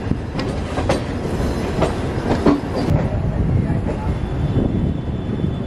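Moving passenger train running over the tracks, heard from an open coach door: a steady rumble with the wheels clicking over rail joints and points. The clicking thins out to an even rumble about three seconds in.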